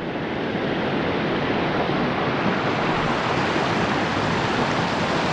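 Steady rush and splash of creek water as an e-mountain bike fords a stream, the water washing around the wheels.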